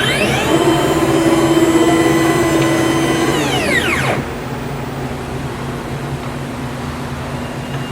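Stepcraft Q408 CNC router's ATC spindle running at speed with a steady high whine, then spinning down in a falling whine that dies away about four seconds in. A steady machine hum continues underneath.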